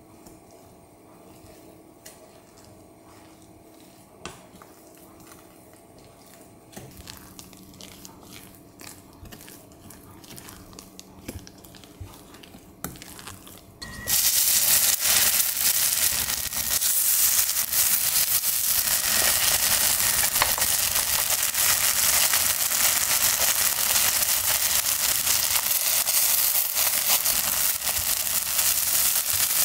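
Faint scraping and tapping of a spatula mixing grated potato batter in a glass bowl. About halfway in, spoonfuls of potato pancake batter go into hot oil in a frying pan and sizzle loudly, frying steadily.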